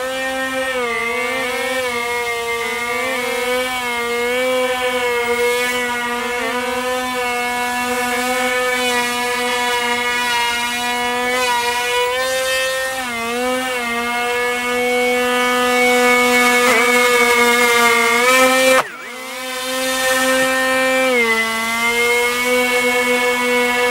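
XK X420 VTOL RC airplane's brushed electric motors and propellers whining in flight, the pitch wavering up and down with throttle changes. About 19 seconds in the sound drops off abruptly, then picks up again.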